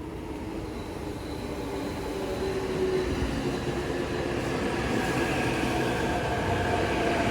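Electric train pulling into a station platform, its rumble growing steadily louder, with whining tones from the wheels and motors above it.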